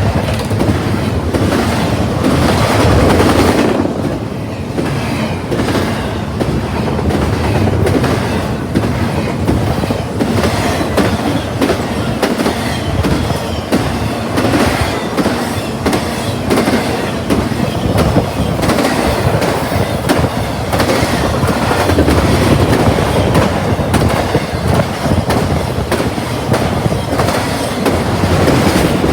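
Intermodal freight train rolling past: a steady, loud rumble with a rapid run of wheel clicks and clatter on the rails.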